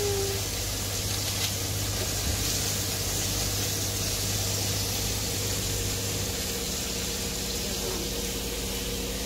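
Fresh spinach leaves sizzling in hot sunflower oil and butter in a pot, a steady hiss, with a low hum underneath that stops about six seconds in.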